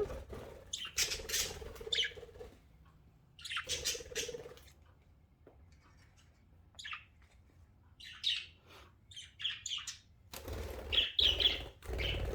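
Pet budgerigars chirping and chattering in short, scattered high-pitched calls, with a few brief rustling sounds.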